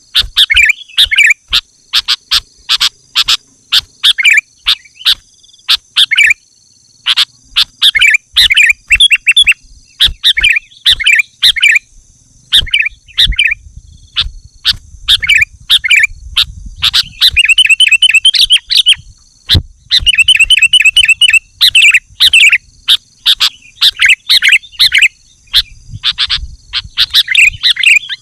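Sooty-headed bulbul calling loudly and incessantly in short, quick chattering phrases, with two longer rapid trills a little past the middle. Sharp clicks run through the calls.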